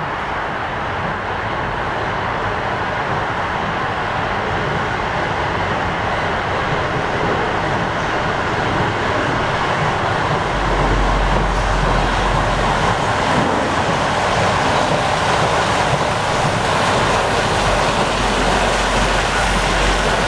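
A heritage railway train running, a steady rail noise that grows a little louder, with a deep rumble coming in about halfway through.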